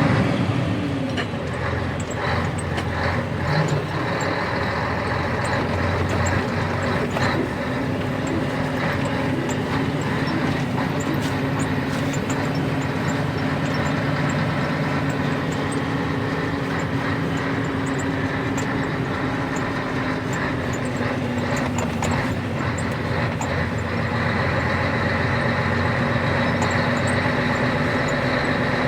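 Scania 113 truck's diesel engine running steadily. Its pitch drops about a second in and picks up a little later on, with scattered short knocks and rattles over it.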